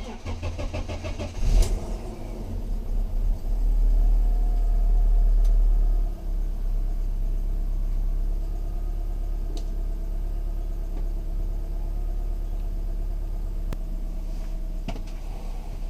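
BMW E46's four-cylinder petrol engine cranking and catching, held at raised revs for a couple of seconds, then dropping to a steady idle about six seconds in.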